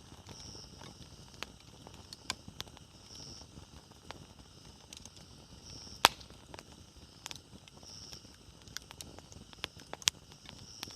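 Wood fire crackling, with irregular small snaps and pops and one sharp, loud pop about six seconds in.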